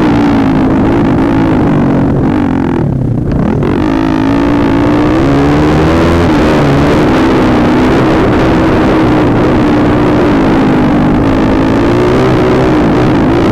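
Pit bike engine running hard under throttle, its pitch wavering as the revs rise and fall. About three seconds in it drops off throttle briefly, then revs back up.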